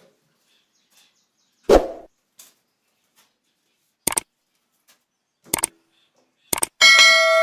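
A few separate sharp knocks, the first the heaviest. Near the end comes a loud, bright metallic ding that rings steadily for about a second.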